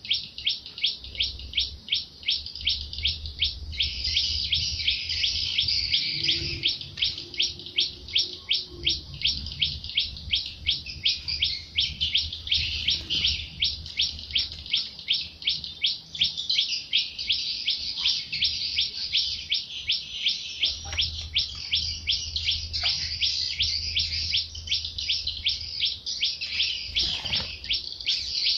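A bird repeats a short high chirp steadily, about two to three times a second, over a faint low rumble.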